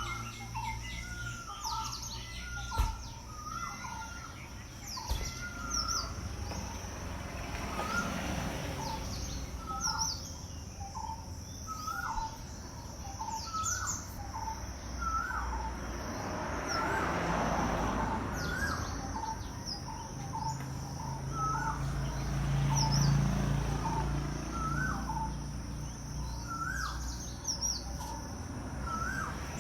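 Birds calling outdoors: one bird repeats a short two-note call over and over, roughly every second or two, while other birds add higher chirps over a steady high drone. A broad rushing swell rises and fades around the middle, and a low hum comes in a little later.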